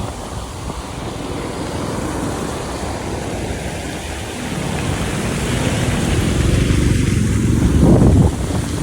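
Traffic on a rain-wet road: steady tyre and road noise. A vehicle grows louder from about halfway through, is loudest near the end, then the sound drops off suddenly.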